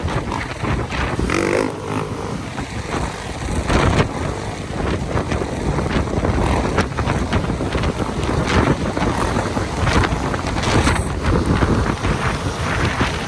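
Wind rushing and buffeting over the microphone of a moving motorcycle, with the bike's engine running underneath.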